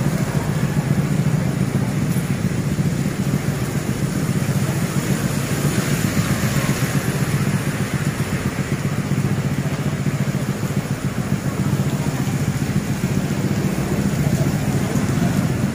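Steady heavy rain falling on a wet street, with an engine idling steadily underneath. A motor scooter passes close by near the start.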